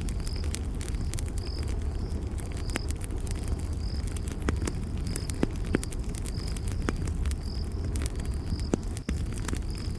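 Campfire crackling, with scattered sharp pops over a steady low rumble, while a cricket chirps in short high pulses about once or twice a second.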